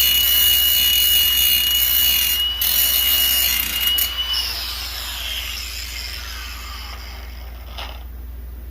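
Handheld angle grinder running against the quad's steel frame: a steady high whine with grinding noise. About four and a half seconds in, the trigger is released and the disc winds down with a falling whine.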